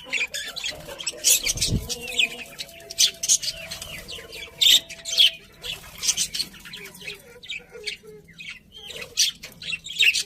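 Budgerigars chirping and chattering in quick, irregular bursts of short high calls, with a brief low thump about two seconds in.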